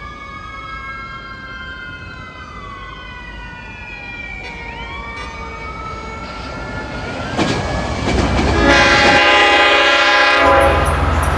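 Long Island Rail Road diesel train approaching: faint high whining tones slide slowly downward, the noise grows, and a loud horn blast sounds from about nine seconds in for nearly two seconds. It is followed by a heavy low diesel locomotive rumble.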